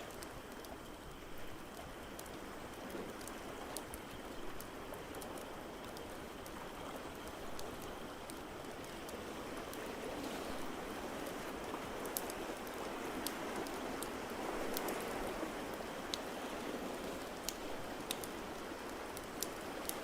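Ocean waves washing in a steady rushing wash that swells slowly and eases, with sharp scattered pops and crackles of a wood fire over it.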